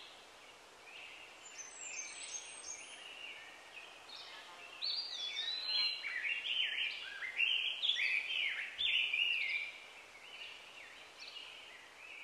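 Small birds singing: a run of quick chirps and short whistled notes that rise and fall, overlapping and busiest in the middle of the stretch, over a faint steady outdoor hiss.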